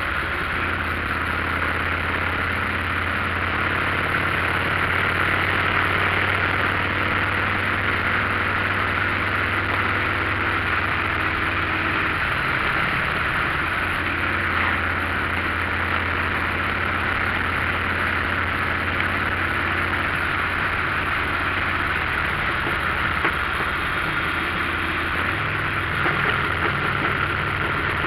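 Motorcycle engine running at steady revs while riding, under a constant rush of wind and road noise. The engine note shifts about 25 seconds in.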